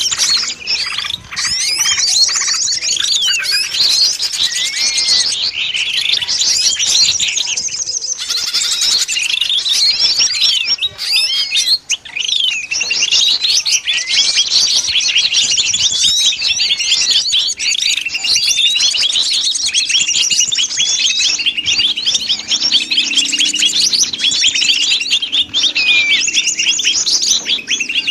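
A busy chorus of many small songbirds chirping and twittering at once, with quick rising and falling whistled notes overlapping without a break. It is a bird-lure recording of small birds calling noisily, made to draw wild birds in.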